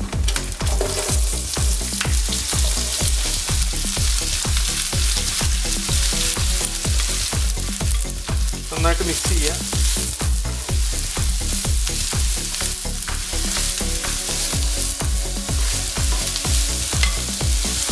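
Whole spices and sliced red onions frying and sizzling in hot ghee in a pot, stirred with a spatula. A soft background music bed with a steady beat runs underneath.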